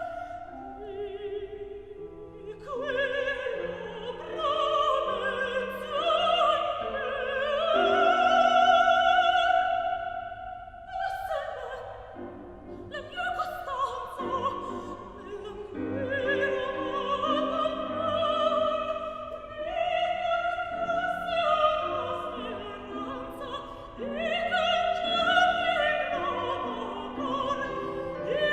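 Operatic singing with vibrato over instrumental accompaniment, with a short break in the voice about 11 seconds in.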